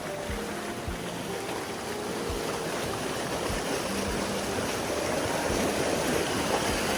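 Floodwater rushing through a swollen mountain stream, a steady rushing noise that grows louder over the few seconds.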